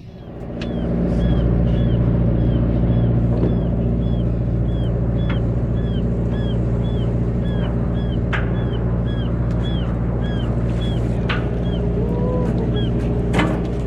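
A boat's engine running steadily, with short high chirps repeating a couple of times a second over it and a few sharp clicks.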